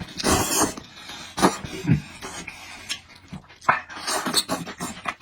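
Close-miked eating sounds: a noisy slurp, then wet chewing with scattered smacks and clicks.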